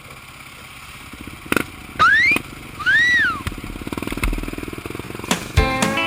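Engine idling with a steady low pulse. About two seconds in come two loud whistled notes, the first rising and the second rising then falling, like a wolf whistle, with a few knocks around them. Guitar music starts near the end.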